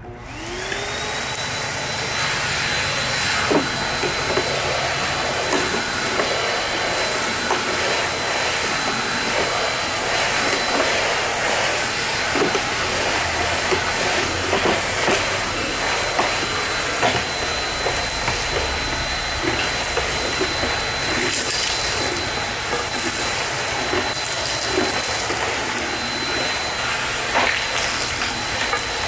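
Nilfisk GM80 vacuum cleaner switched on, its motor whine rising in the first second, then running steadily. Frequent short clicks and knocks sound over the steady noise.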